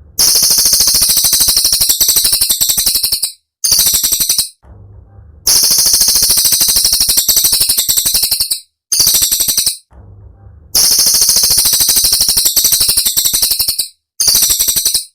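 Cililin songbird singing its shrill, very rapid rattling trills ('tembakan'), high-pitched and loud. The trills come in phrases of about three seconds, each followed by a shorter burst, separated by brief pauses.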